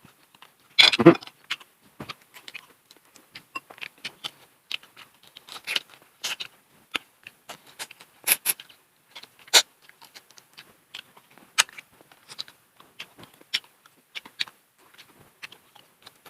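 Close-up eating sounds: irregular crunches, clicks and mouth smacks of someone chewing, with a louder burst about a second in and a few sharp clicks later on.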